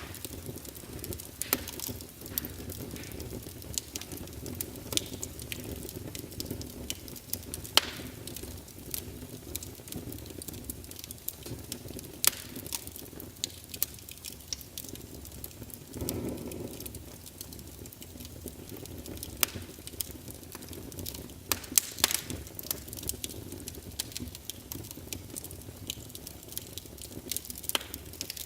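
Wood fire burning in a fireplace: irregular sharp crackles and pops of the burning logs over a steady low hiss of the flames, with a brief, fuller flare of sound about halfway through.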